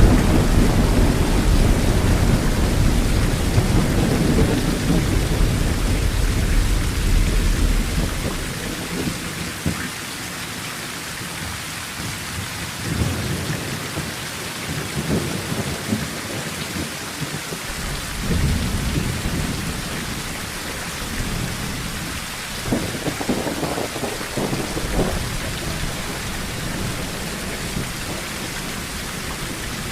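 Rain falling steadily on a tin roof, with thunder: a long low rumble that fades away over the first several seconds, then a few fainter rolls later on.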